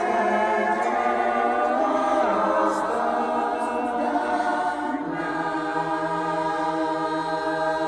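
A cappella barbershop chorus singing in close harmony. About five seconds in it settles onto a long held chord.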